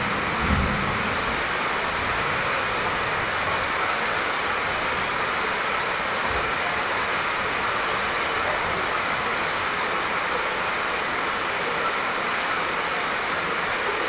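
Steady light rain falling, an even hiss with no let-up. A soft low bump about half a second in.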